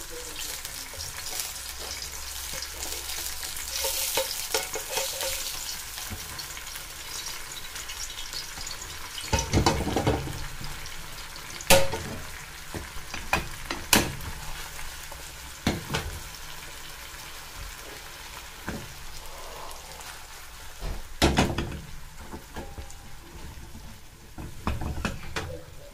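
Salmon fillets frying in oil in a skillet with onions and tomatoes, a steady sizzle, while a slotted spatula scrapes and knocks against the pan several times.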